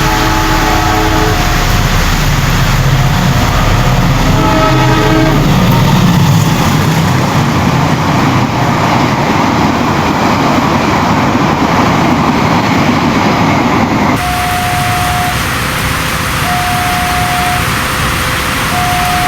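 Passenger train sounding its horn twice, then running past with a loud rumbling rush of wheels on rail. After an abrupt change about two-thirds of the way through, a single steady tone about a second long repeats every couple of seconds over the background noise.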